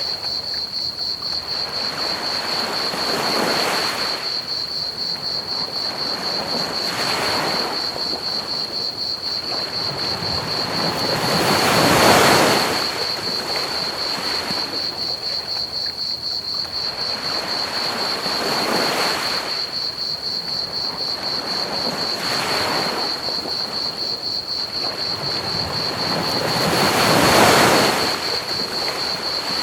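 Ocean waves breaking and washing ashore in slow swells, the biggest about twelve seconds in and near the end, over a steady chorus of crickets trilling on one high pitch and a constant hiss of pink noise.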